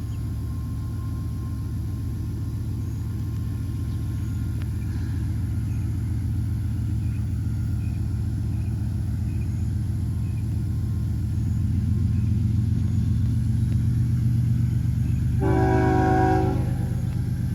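Diesel freight train approaching with a steady low rumble that slowly grows louder. Near the end the locomotive's air horn gives one short blast of about a second.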